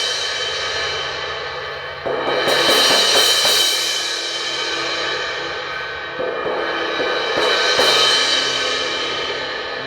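Cracked Zildjian 18-inch K Custom Hybrid crash cymbal being struck: it rings on from a hit just before, is struck again about two seconds in and about seven seconds in, and each crash rings out long and decays slowly. The crack gives the ring a little raspiness.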